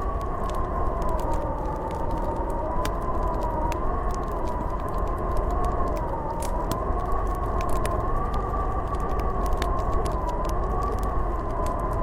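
Howling blizzard wind, a wavering whistle that slowly rises and falls over a low rumble, with the crackle and pops of a wood fire.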